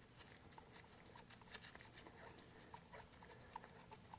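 Near silence with faint, scattered small clicks and taps from hand work on the tractor's fuel-line fittings.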